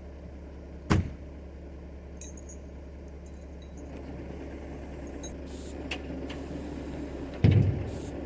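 Heavy diesel engine running steadily at a low, even note, with two loud clunks, one about a second in and a louder one near the end.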